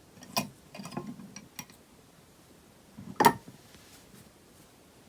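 Sponge slime being squeezed and worked, giving sharp pops and crackles: a scattering of pops in the first two seconds and one loudest pop about three seconds in.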